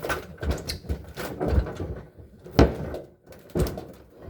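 Knocks, bumps and scraping as a refrigerator is shifted, with the loudest bang about two and a half seconds in.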